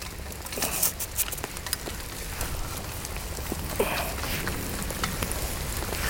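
Heavy rain falling, a dense irregular patter of drops striking the plastic bag that covers the camera, with a few louder taps standing out.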